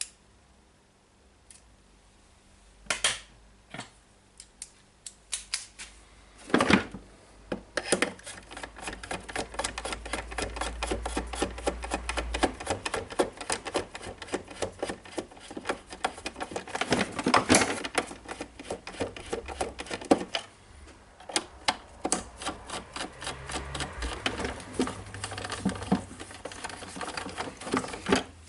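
Rapid light clicking and tapping of small hard plastic and metal parts being handled and fitted during reassembly of a power-tool site radio, with a few louder knocks in the first seven seconds.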